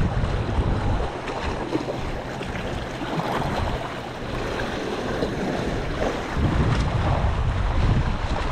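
Sea waves washing against a rocky shore, with wind buffeting the microphone in gusty low rumbles.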